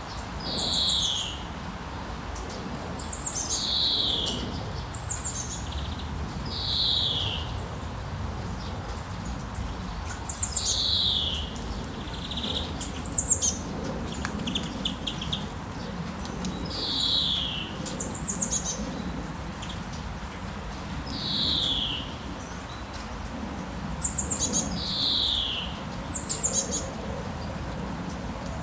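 Rainforest birds calling: a short downward-sliding whistle repeats every three to four seconds, mixed with quick high chirps, over a steady low background rumble.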